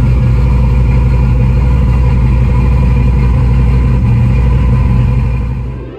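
A Fox-body Mustang's 5.0 V8 idling steadily just after being started, heard from inside the cabin. It fades out near the end.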